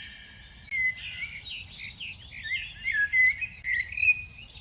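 A chorus of small birds chirping and calling, many short quick notes overlapping one another.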